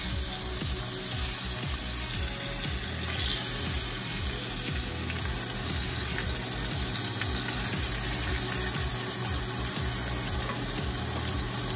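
Seasoned salmon fillets frying in olive oil in a skillet: a steady sizzle.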